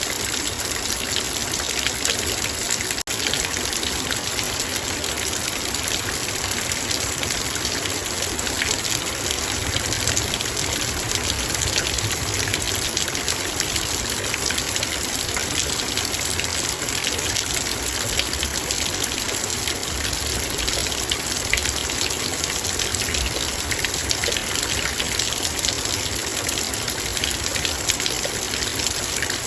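Heavy rain falling on a metal bowl: a dense, steady wash of countless raindrops ticking on the metal, with a momentary dip in level about three seconds in.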